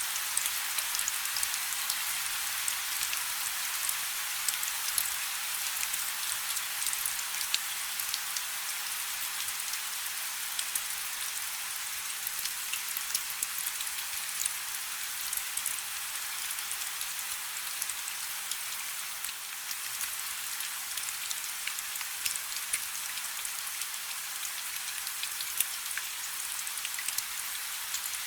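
Light rain falling steadily, a continuous high hiss with many small drop ticks scattered through it.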